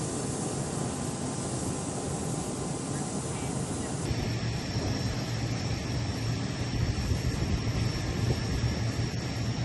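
Aircraft engines running, a steady noise that turns into a stronger low rumble with a thin steady high tone about four seconds in.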